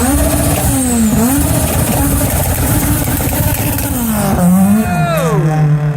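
A modified car's engine revving hard as the car accelerates away, its pitch climbing and dropping several times, then holding a lower, steadier note near the end.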